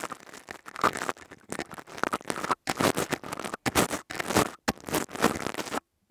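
Crystal tube close-miked, scratched and rubbed in irregular strokes with brief gaps, the sound cutting off suddenly near the end.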